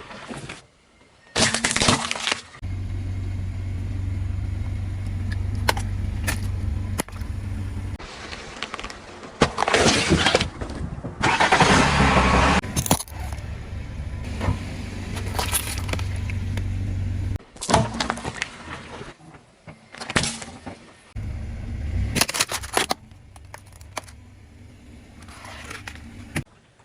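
A car's engine running at low speed while its tyres roll over and crush objects, giving several loud crunching, breaking bursts between stretches of steady engine hum.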